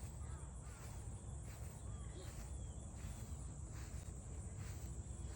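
Outdoor ambience: a steady low rumble, like wind on the microphone, under a steady high hiss, with a few faint, short bird chirps scattered through.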